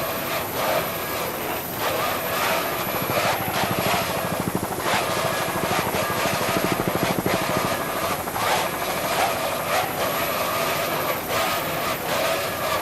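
Loud, steady engine noise of powerful engines running at speed, with a fast pulsing that comes in about halfway through.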